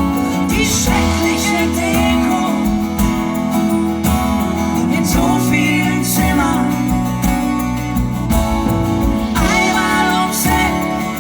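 Live acoustic band music led by acoustic guitar, with a wavering melody line over sustained chords and no clear sung words.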